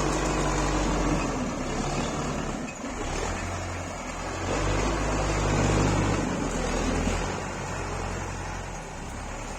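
Tractor engine running under varying load. It dips briefly just under three seconds in, then builds again and is loudest about six seconds in.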